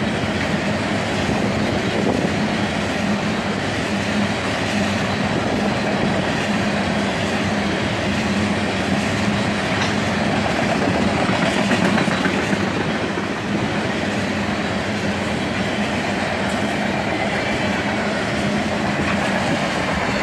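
CSX freight train of tank cars rolling past: a steady rumble and clatter of steel wheels on the rails.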